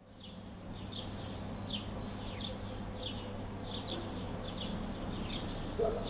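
Outdoor ambience with small birds chirping, short high calls that drop quickly in pitch and repeat irregularly, over a steady low hum.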